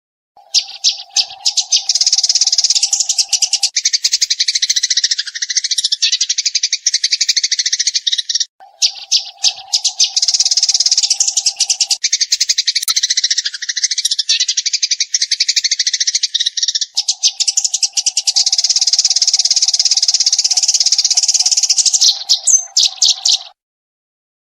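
Eurasian tree sparrows chirping in a rapid, nonstop chatter, with one short break about a third of the way in. A steady low hum runs under parts of it, coming and going three times.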